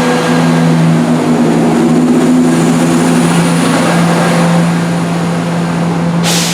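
Diesel multiple unit's underfloor engine running loudly close by, a steady low drone over broad rumble, with a short hiss near the end.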